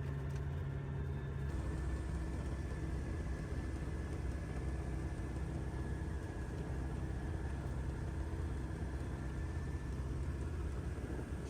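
Remos GX light sport aircraft's Rotax 912 four-cylinder engine idling on the ground, a steady low drone heard from the cockpit. About a second and a half in, the low hum shifts slightly and then holds steady.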